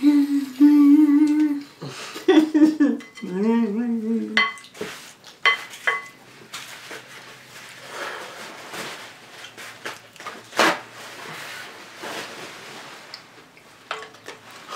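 A person humming a wordless tune for about four seconds, then spoons clinking and scraping in cereal bowls as the cereal is eaten, with sharp clinks scattered through.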